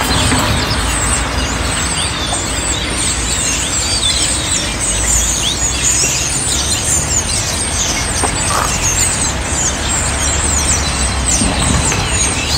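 Small songbirds chirping busily: many quick, high, falling chirps overlapping, over a steady low rumble.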